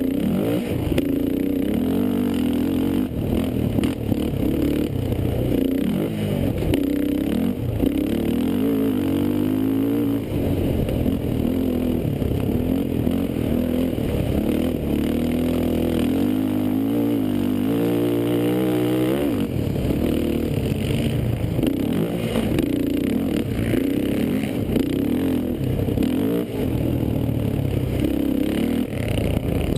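Racing quad engine running hard, its pitch rising and falling over and over as the throttle opens and closes, with a long rising rev a little past the halfway point.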